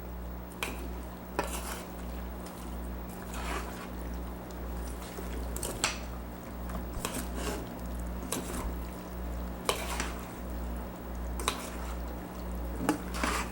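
Utensils tossing a pasta salad in a mixing bowl: irregular light clinks and scrapes against the bowl, every second or so, over a steady low electrical hum.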